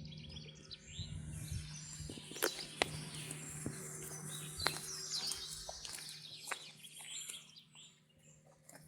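Several wild birds singing and calling, a mix of quick chirps and whistles, over a steady low hum, with a few sharp ticks in between; the birdsong thins out near the end.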